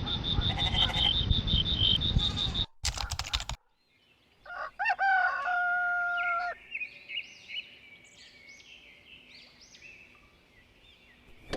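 A small engine running loudly and cutting off abruptly, then a rooster crowing once with a long held note, followed by faint bird chirps.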